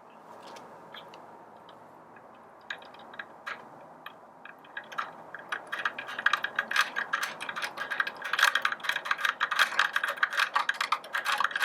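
Small metal clicks of a screwdriver working a screw and washer into a metal bracket on a coffee grinder. Scattered clicks at first, then rapid, dense clicking from about halfway.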